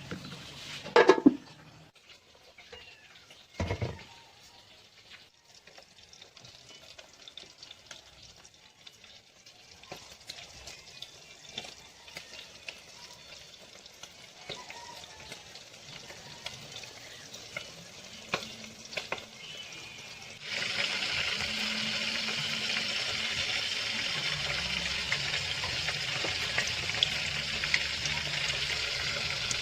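A couple of knocks and clatters, then quiet small clicks. About two-thirds of the way through, a steady loud sizzle begins: twisted shakoy dough deep-frying in hot oil.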